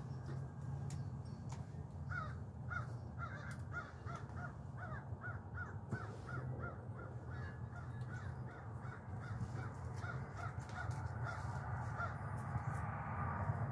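A bird giving a long, rapid series of harsh calls, about three a second, starting about two seconds in and stopping near the end, over a steady low hum.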